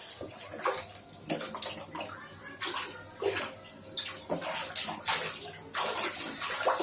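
Water splashing and sloshing as a lovebird swims and flaps in a small basin, in irregular bursts of splashes.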